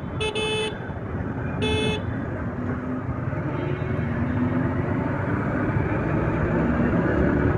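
A vehicle horn honks twice in short blasts in the first two seconds. Under it, steady motorcycle engine and road noise run on while riding in traffic.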